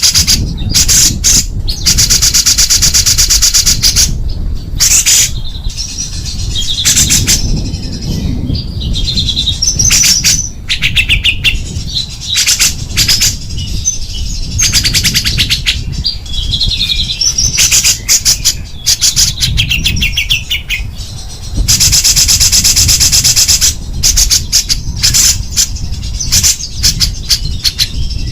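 Small songbird singing loud, rapid, harsh phrases of fast repeated high notes and trills: the 'tight, rough shots' prized in songbird tutor recordings. Two long buzzy rattles of about two seconds each come near the start and after the middle, over a steady low rumble.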